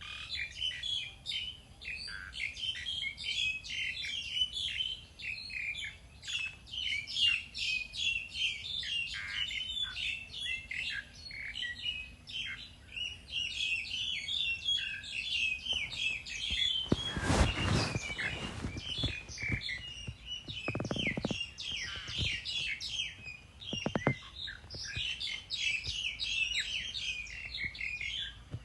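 Many small birds chirping and twittering over one another without a break. About halfway through comes a brief rushing noise lasting about a second, with two shorter ones a few seconds later.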